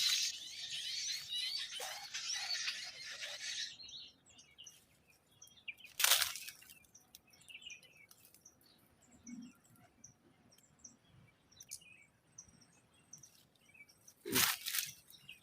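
Dense, high bird chirping that stops abruptly about four seconds in, followed by scattered faint bird chirps. A sharp crack comes about six seconds in, and there are loud rustles near the end.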